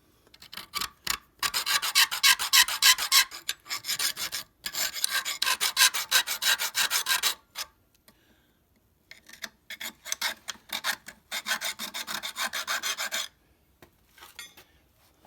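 Hand file rasping the bottom of a small metal clip on a Model T transmission band, in quick back-and-forth strokes, relieving the clip so it will snap down over the band end. The filing comes in three spells with short pauses between, about four and eight seconds in, then trails off to a few scattered scrapes near the end.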